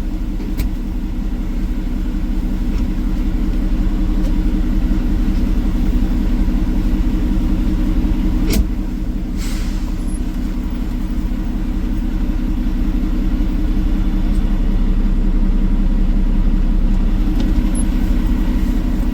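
Peterbilt 389 semi truck's diesel engine idling steadily. There is a sharp click about eight and a half seconds in and a short hiss just after.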